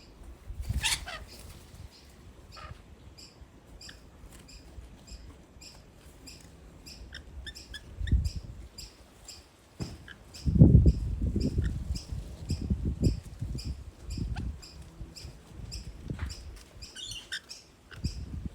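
Rainbow lorikeets feeding in an apple tree: bouts of rustling and thumping among the branches, loudest from about ten to fourteen seconds in, with a short falling screech about a second in and brief high chattering near the end. A faint high ticking repeats about three times a second underneath.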